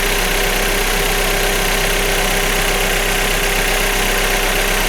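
Opel Omega B's 2.0-litre X20XEV four-cylinder petrol engine idling steadily, warmed up.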